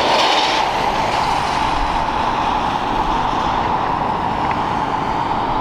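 Jet airliner engines running, a loud steady rushing noise with a faint high whine that slowly shifts in pitch.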